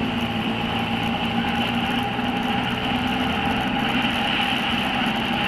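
Motorcycle engine running steadily at speed under a loud, even rushing of wind.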